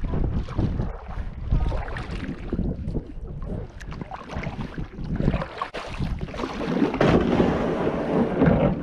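Kayak on the move on a river: irregular splashes and knocks of paddling against the water, with wind buffeting the microphone in a low rumble, the noise thickest in the last couple of seconds.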